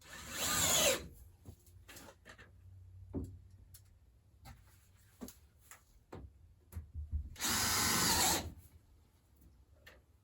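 Power drill driving screws in two short runs of about a second each, one right at the start and one about seven and a half seconds in. Small knocks and handling clicks come between them.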